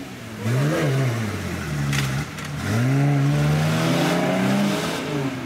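Nissan Patrol 4x4 engine revving hard while stuck in deep mud, its pitch rising and falling several times as the throttle is worked. There is a short knock about two seconds in.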